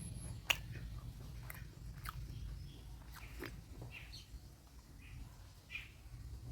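Close-miked chewing of spicy mutton curry, with scattered wet mouth clicks and smacks (the sharpest about half a second in) over a low steady hum.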